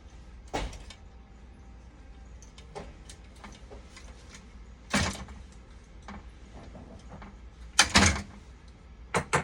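Parts and tools being handled during a repair: several sharp knocks and clatters a few seconds apart, the loudest a double clatter near the end, over a low steady hum.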